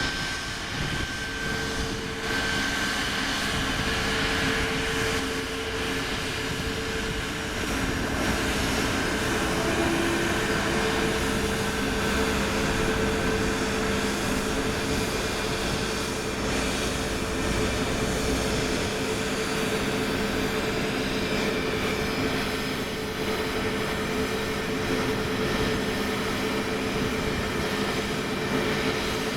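Jet airliner engines running steadily, a continuous rumble with a steady whine held on several pitches.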